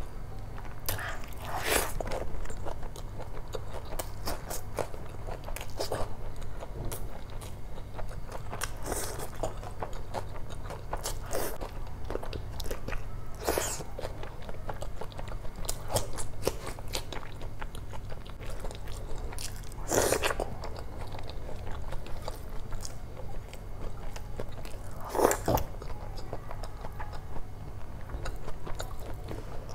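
Close-miked chewing of a mouthful of curry-soaked rice eaten by hand, with irregular wet smacks and clicks of the mouth; a few louder smacks stand out.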